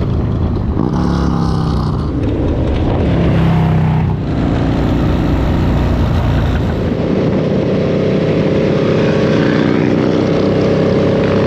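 Motorcycle engines running. Their pitch rises and falls over the first few seconds, then holds steady.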